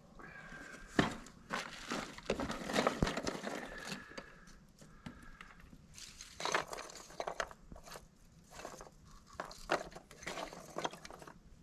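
Irregular rustling, crinkling and sharp cracks of kindling and small firewood being handled and laid to start a campfire, in two busy spells with a lull between.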